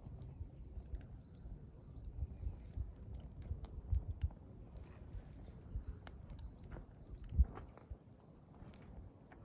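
Wood fire crackling, with scattered sharp snaps and low pops; one pop about seven seconds in is the loudest. A songbird sings two phrases of quick, repeated rising high notes, the first starting just after the start and the second around five and a half seconds in.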